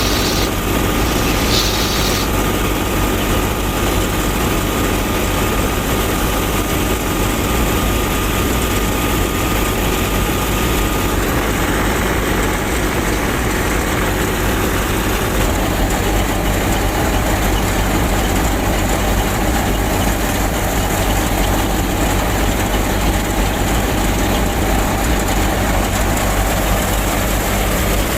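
A small motor of the miniature tractor and thresher running steadily with a continuous mechanical drone. A thin whine stops and the sound turns brighter about eleven seconds in.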